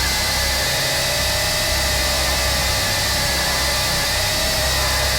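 Aircraft jet engines running steadily: an even rushing noise with a steady whine held at a fixed pitch.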